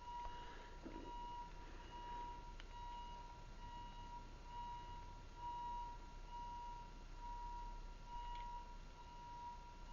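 Craftsman belt-drive garage door opener sounding its timer-to-close warning: a faint, even electronic beeping, about three beeps every two seconds, that warns the door is about to close automatically.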